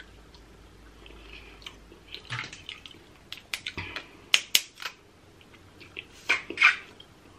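Close-miked eating sounds: a person chewing crab with wet mouth smacks and scattered sharp clicks. A few louder snaps come around the middle and again near the end.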